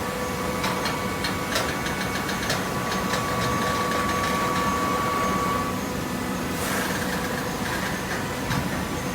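Hydraulic vertical paper baler running, its pump motor humming steadily. A thin whine stops about six seconds in, sharp clicks and knocks come in the first three seconds, and a short hiss sounds near seven seconds.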